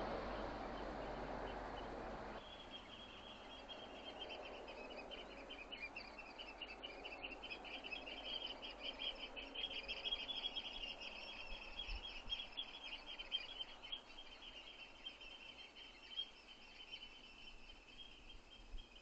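Small songbirds trilling: a rapid, high-pitched, continuous trill starts about two seconds in and keeps going, over faint outdoor background noise.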